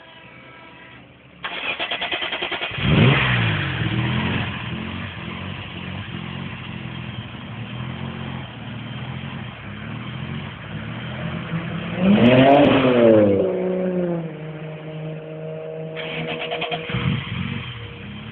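Turbocharged BMW E46 M3 engine cranked by the starter, catching about three seconds in with a flare of revs, then settling into an uneven idle. About twelve seconds in it is blipped once, the revs rising and falling quickly. Near the end a fast rattle sets in over the idle.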